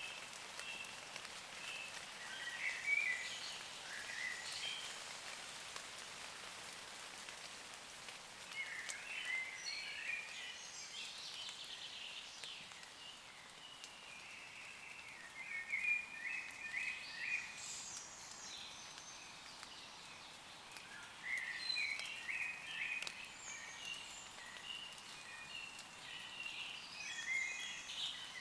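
Steady light rain pattering on leaves, with woodland birds singing short phrases of song every few seconds over it.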